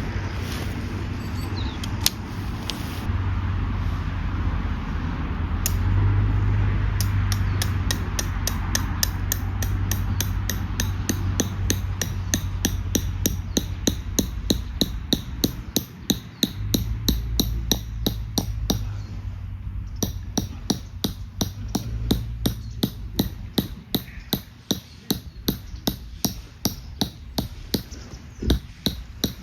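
Steady, even hammer strikes, about two to three a second, as of tent pegs being driven into the ground, over a low steady rumble.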